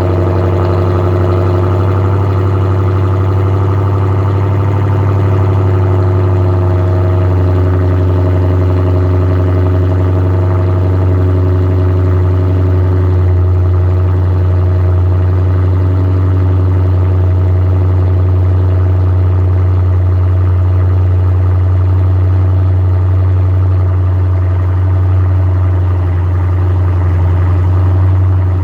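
Straight-piped Dodge Challenger engine idling steadily on a cold start, with a deep, even exhaust drone.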